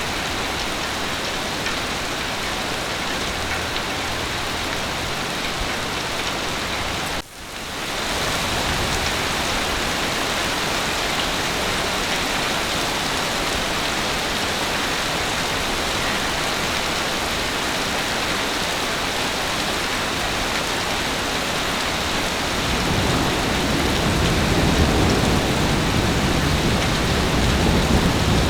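Heavy rain falling steadily, with a brief dropout about seven seconds in. A low rumble of thunder builds over the last few seconds.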